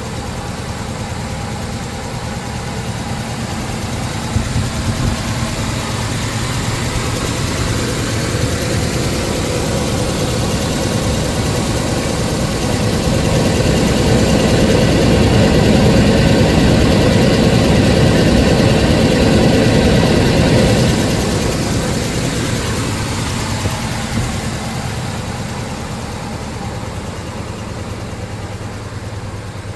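1968 Plymouth Road Runner's 383 four-barrel V8 running. It swells louder for several seconds through the middle, then drops back and eases off toward the end.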